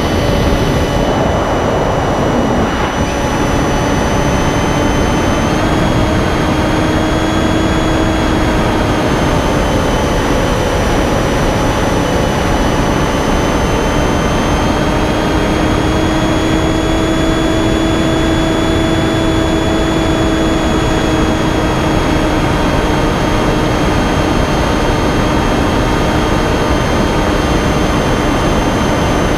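Electric motor and propeller of a Finwing Penguin RC plane whining steadily in flight over a rush of wind noise. Its pitch drifts slightly up and down with the throttle.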